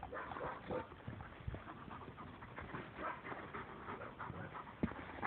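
Dogs panting, with short whimpers among irregular small scuffling sounds.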